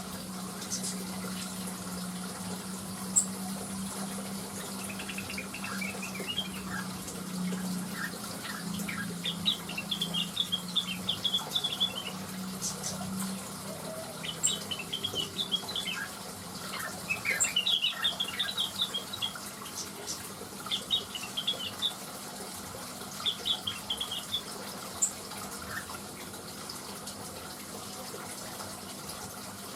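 Cucak wilis (blue-winged leafbird) singing in short bursts of rapid, high chirping phrases, repeated several times with pauses between, over a steady background hiss. A low steady hum runs under the first half and stops about thirteen seconds in.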